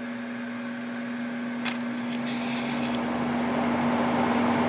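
5000 BTU Haier window air conditioner's fan running on low speed with a steady hum, the rush of air gradually building as the fan spins up; one sharp click about one and a half seconds in. The compressor has not started yet.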